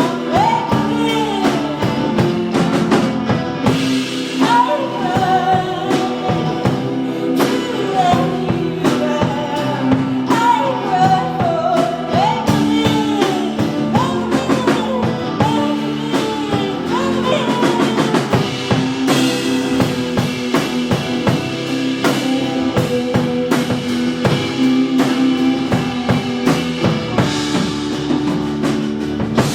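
Live rock band playing a song loudly: a drum kit beating steadily under bass and guitars, with a sung vocal line gliding up and down through roughly the first half, then an instrumental stretch.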